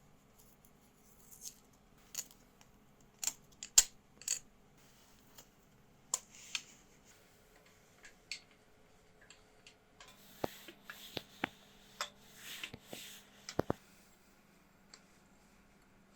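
Irregular metallic clicks and clinks of hand tools and metal parts being handled, with a denser run of clinks and some scraping about ten seconds in, over a faint steady hum.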